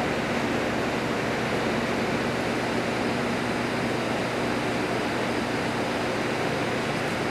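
Steady, even mechanical hum and rushing noise with a faint low drone, unchanging throughout, like a fan or motor running.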